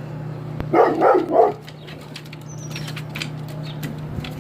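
Dog barking three times in quick succession about a second in.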